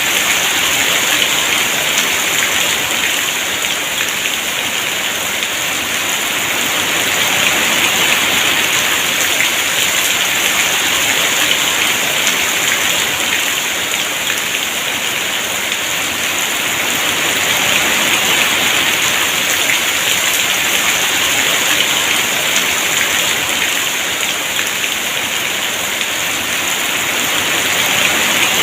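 Heavy rain falling steadily, a dense even patter that swells and eases gently every ten seconds or so.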